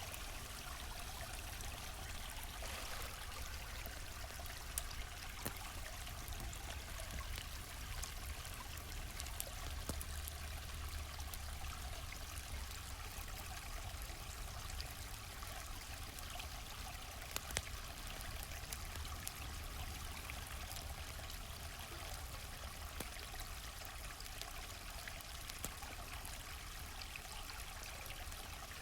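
A gently flowing stream, a steady rush and trickle of water, with a few sharp pops now and then from a crackling campfire.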